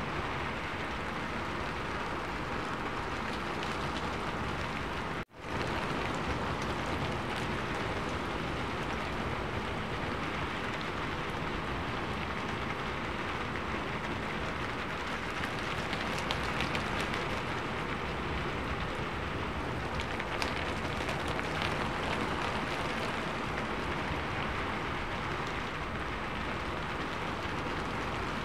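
Rain falling steadily on a sheet-metal roof, a dense even patter. About five seconds in, the sound cuts out for an instant and returns.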